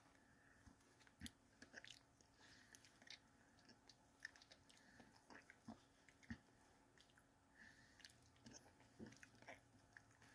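Very faint eating sounds: a person chewing and swallowing a mouthful of ice cream, with small irregular mouth clicks and smacks.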